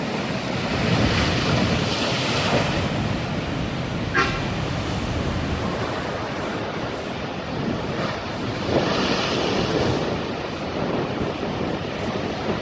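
Sea surf washing in against the shore, with wind buffeting the microphone; the surf swells louder twice, early on and again past the middle. A brief high-pitched squeak sounds about four seconds in.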